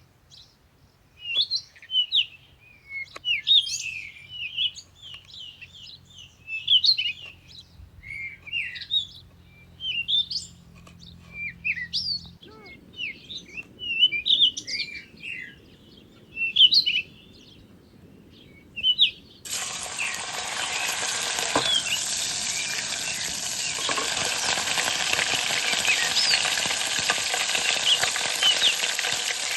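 Songbirds chirping with short repeated calls. About two-thirds of the way in, this gives way abruptly to food frying, a loud steady sizzle.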